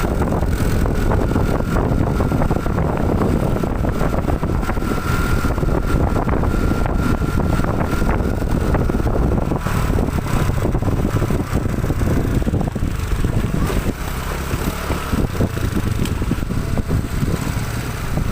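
Heavy produce truck's engine running loud and steady, with a thin steady whine over it that fades out about halfway.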